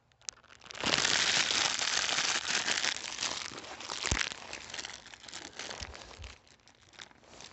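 Crinkling of food packaging, loudest for a couple of seconds after it starts about a second in, then tapering off into scattered crackles and clicks.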